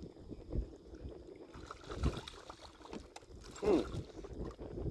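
Shallow water sloshing and splashing, with a couple of dull low thumps. There is a short, low voice-like sound about three and a half seconds in.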